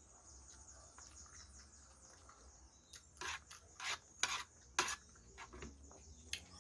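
Eating sounds from someone eating curry and rice: after a quiet stretch, a quick series of five or six short, sharp noises in the middle.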